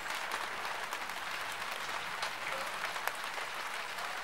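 Rain falling steadily: an even hiss with fine crackles.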